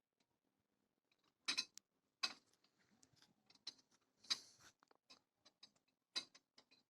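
Near silence broken by a few faint, irregular clicks and taps.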